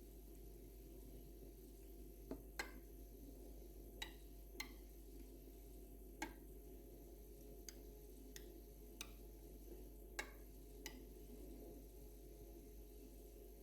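Atlant refrigerator with its compressor running: a quiet steady hum, broken by about ten sharp clicks and cracks from the cabinet at irregular intervals. This is the clicking and crackling the fridge makes whenever its compressor runs.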